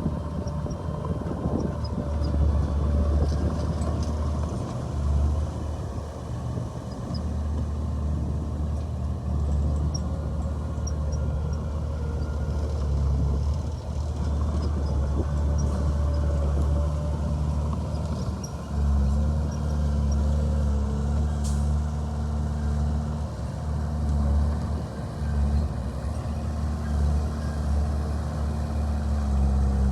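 Heavy diesel earthmoving machinery running, a steady low drone that shifts in tone about two-thirds of the way through.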